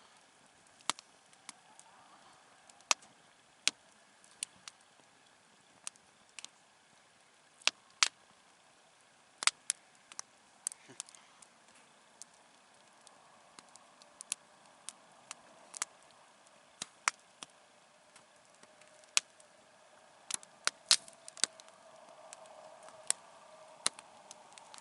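Wood campfire crackling: irregular sharp pops and snaps, a few every second, some of them loud, over a faint steady hiss that grows a little stronger in the later part.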